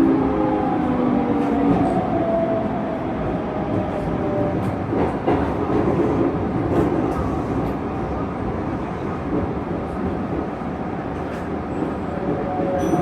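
Electric train on the adjacent track: a motor whine falling in pitch near the start, then a steady rumble of wheels on rails with scattered clicks, and another falling whine near the end.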